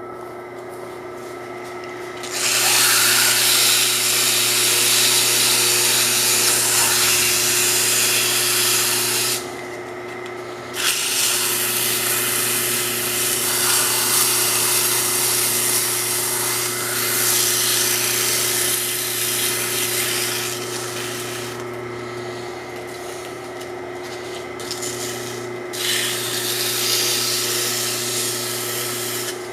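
A file scraping against the spinning shaft of a 2.65 HP, 230-volt two-speed pump motor running at low speed, cleaning the shaft off. The rasping comes in long spells, breaking off about ten seconds in and easing again from about twenty-one to twenty-six seconds in, over the motor's steady hum.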